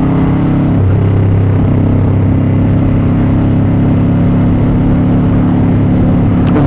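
Motorcycle engine running at a steady speed while riding, its pitch shifting slightly about a second in.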